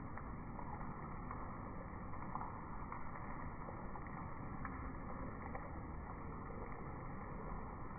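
Steady rain falling: an even wash of noise with scattered faint drop taps.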